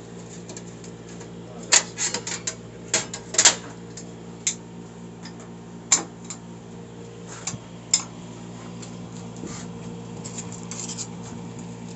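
Metal hand tools and transmission parts clinking and clattering in irregular knocks, over a steady low hum.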